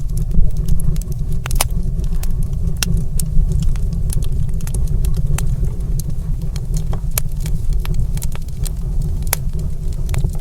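Wood fire in a stone fireplace crackling, with sharp irregular pops and snaps over a steady low rumble.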